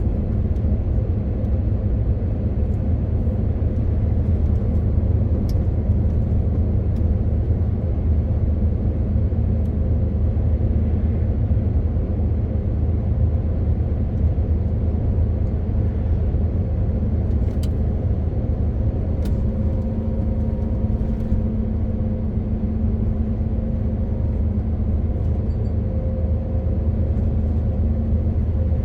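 MAN TGX 18.520 truck's straight-six diesel running at a steady pace while driving, a low even drone over road rumble.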